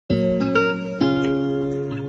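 Background music: acoustic guitar chords, one struck at the start and a new one about a second in, each left ringing.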